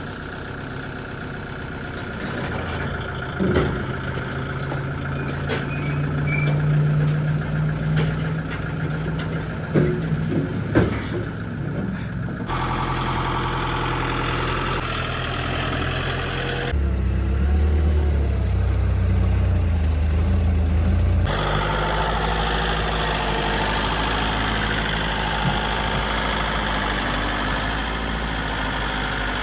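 A motor vehicle's engine idling and running in several short cuts, with scattered metal clanks and knocks in the first part.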